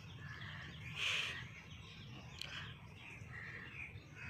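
Faint bird calls in the background over a low steady hum, with the loudest call about a second in.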